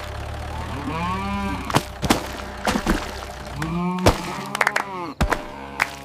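Cows mooing: two long calls that rise and fall in pitch, about a second in and again near four seconds, with several sharp knocks between them. A low steady rumble runs under the first half.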